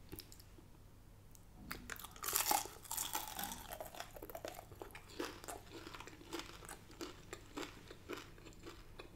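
A person biting into and chewing crispy oven-cooked chicken wings close to the microphone. It is quiet at first; the crunching starts about two seconds in and is loudest just after, then runs on as a string of small crackles while she chews.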